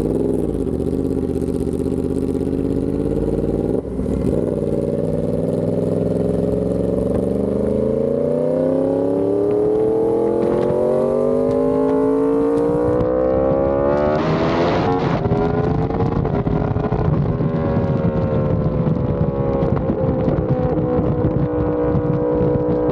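Yamaha R1M's crossplane inline-four running through an SC Project exhaust while being ridden. The engine note drops at first and breaks off briefly about four seconds in, then climbs steadily in pitch for about ten seconds as the bike accelerates. After a short burst of noise it settles into a steady cruise.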